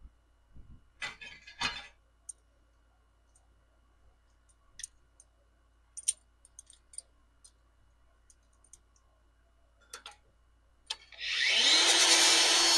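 A few scattered light clicks and taps. About eleven seconds in, a motor-driven power tool spins up, its pitch rising briefly, then runs loudly with a harsh, hissing grind on metal.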